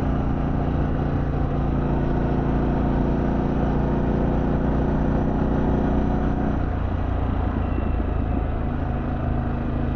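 Harley-Davidson Pan America Special's Revolution Max V-twin running steadily while riding. About six and a half seconds in, the engine note drops and wavers, then settles at a steady pitch again near the end.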